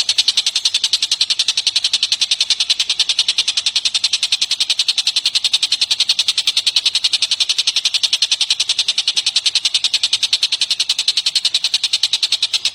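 Recorded bird call: a long, even series of sharp, high notes at about eight a second, kept up without a break.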